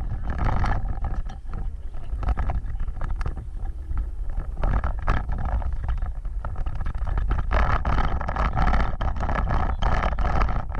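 Off-road vehicle driving over a rough trail: a steady low rumble with frequent knocks and rattles.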